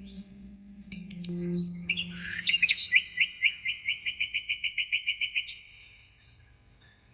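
A songbird singing a rapid trill of repeated high chirps, about five a second, starting about a second in and stopping about five and a half seconds in, over a low steady background tone that fades out.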